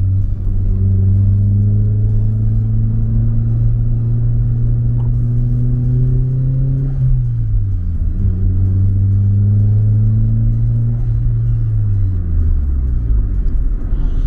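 Nissan Silvia S15 Spec R's turbocharged four-cylinder engine pulling under way, its pitch climbing slowly, then dropping about seven seconds in as the revs fall before climbing again and falling away again near the end.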